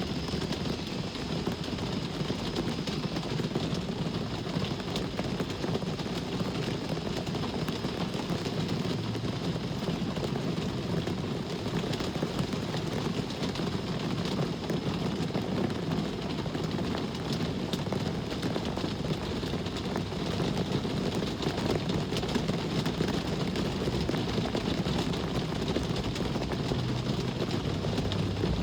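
Steady rain falling over a constant low rumble of traffic.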